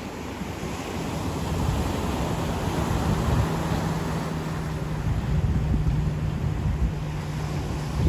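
Ocean waves washing onto a beach, the surf swelling and easing, with wind rumbling on the microphone. A steady low hum comes in about a third of the way through and stays.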